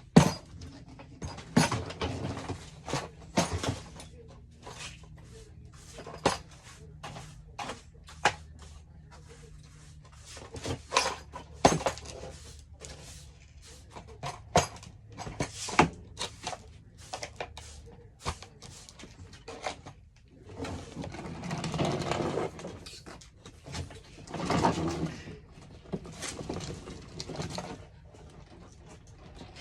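Irregular clicks, knocks and clatter of household objects being handled, with two longer noisy stretches about two-thirds of the way through.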